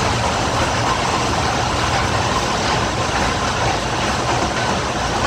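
Steady, loud running noise of the Kurobe Gorge Railway trolley train, its wheels and carriage heard from inside a passenger car as it runs through a tunnel.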